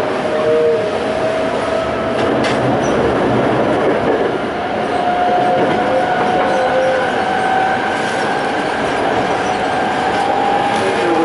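Toei 5300 series electric train running under power, heard from inside the car: the Hitachi-built Mitsubishi GTO-thyristor VVVF inverter and traction motors give a whine rising slowly in pitch as the train gathers speed, over steady wheel and rail noise.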